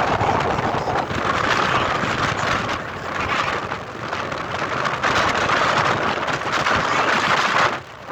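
Strong sea wind rushing over the microphone, mixed with rough surf. The noise surges and eases every couple of seconds and drops away sharply near the end.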